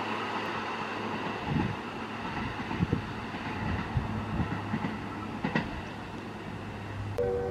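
Electric passenger train running along the line, a steady rumble with the wheels clicking over rail joints now and then. Near the end a station chime melody starts.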